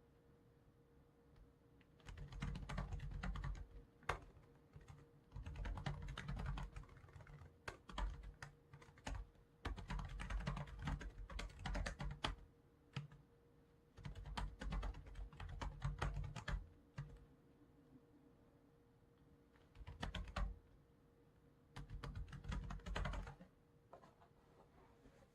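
Computer keyboard typing in bursts of rapid keystrokes a few seconds long, with short pauses between them, quiet for the first two seconds.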